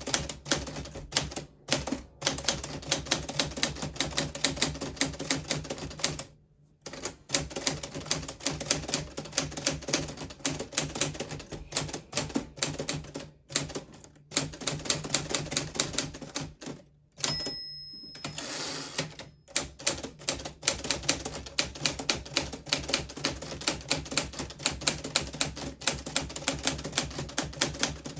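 Steady fast typing on a 1940s Smith Corona Silent manual typewriter, keys and typebars clacking several times a second with a few short pauses. About two-thirds of the way through, a single bell ding is followed by a short sliding rush: the end-of-line bell and the carriage being returned, before typing resumes.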